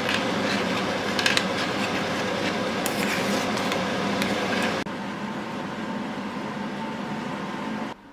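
A steady household appliance hum with a few light clinks of dishes in the first half; the hum steps down suddenly about five seconds in and drops away near the end.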